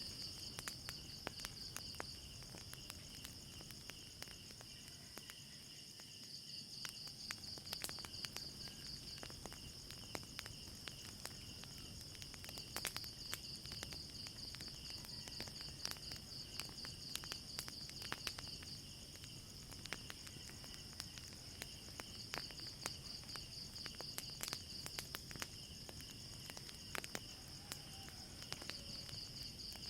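Night insects, crickets among them, trilling in a high pulsing chorus that fades and returns in spells, over a steadier lower insect tone. Scattered sharp crackles of a wood fire run through it.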